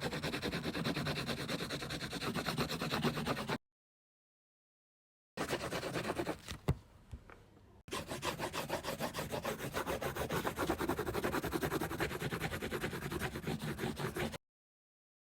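A coloring tool rubbing and scratching on paper in rapid back-and-forth strokes as a page is colored in. It breaks off twice into dead silence, and there is a single sharp click partway through.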